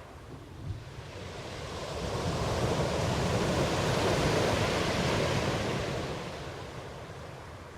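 Ocean waves breaking on a shore: one wave swells up over a couple of seconds, peaks in the middle and washes back down.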